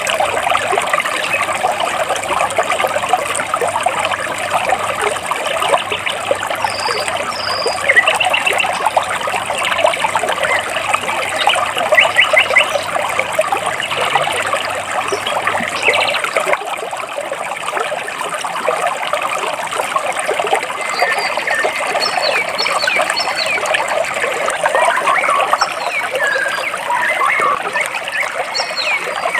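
Stream water burbling and trickling steadily between rocks, with birds giving short high chirps over it now and then.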